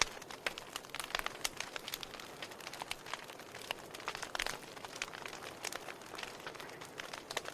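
Wood fire burning, with irregular sharp crackles and pops from the burning logs over a soft steady hiss.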